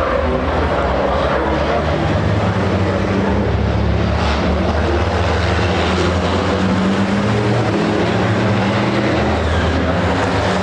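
Racing trucks' big turbodiesel engines running hard, a loud steady low drone whose pitch shifts a few times.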